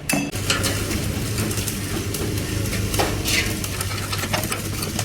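Stick-welding arc crackling and sizzling steadily, struck about half a second in, with a steady low hum underneath.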